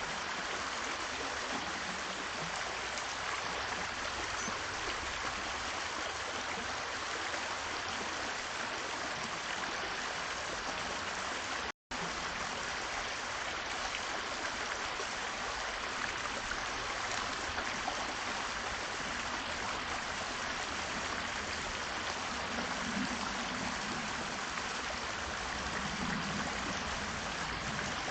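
Steady rushing noise like running water, even throughout, cutting out completely for an instant about twelve seconds in.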